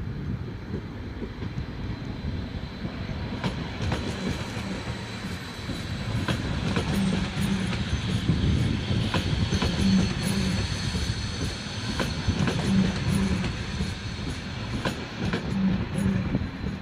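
Train rolling past on the tracks: a steady rumble with the wheels clacking over rail joints every second or so, and a faint steady high whine.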